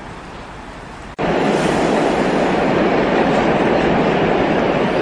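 Electric-hauled passenger train running over a steel truss bridge: a loud, steady rolling noise that starts suddenly about a second in, with quieter steady background noise before it.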